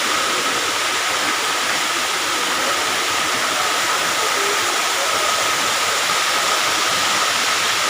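Steady, even rush of a waterfall's falling water, with a thin steady tone running through it.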